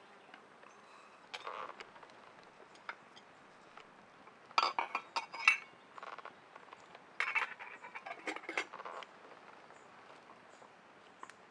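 Light clinks and knocks of small hard objects being handled, in three short clusters: one about a second in, a louder one around five seconds, and another from about seven to nine seconds.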